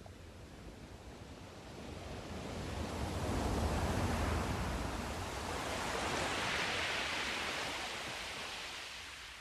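Sea surf: a wave builds and breaks with a low rumble about three to four seconds in, then washes up the shore in a hissing rush that fades away near the end.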